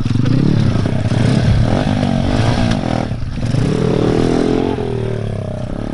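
Small four-stroke pit bike engine revving up and down under riding, with a brief drop off the throttle about three seconds in before it pulls again.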